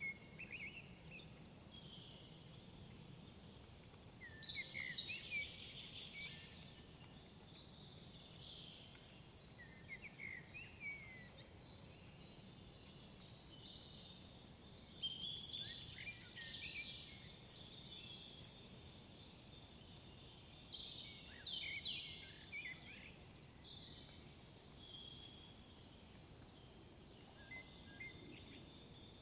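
Several woodland songbirds singing and calling at once. One repeats a short high song phrase about every seven seconds, four times in all, over a faint low background rumble.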